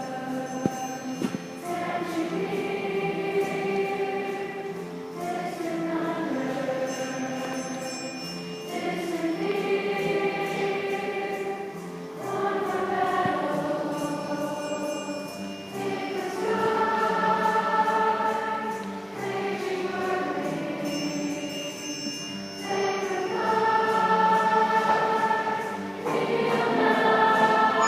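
Young choir singing in held phrases of a few seconds each, with brief breaks between them, growing louder toward the end.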